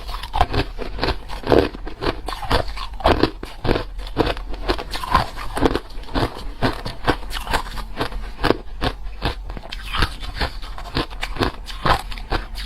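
A person chewing hard ice close to the microphone: a continuous run of crisp, crackling crunches as the ice breaks between the teeth.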